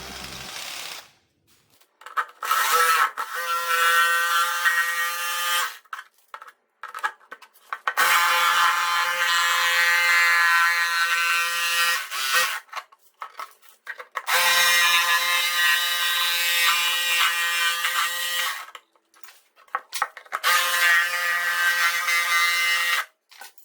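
Brushless electric motor of an RC jet boat's water-jet drive running up to a high whine in four bursts of a few seconds each, with short pauses between.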